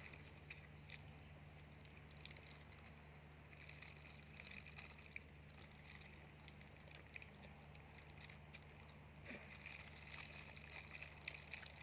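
Near silence: faint outdoor ambience with a steady low hum and faint high chirps about four seconds in and again near the end.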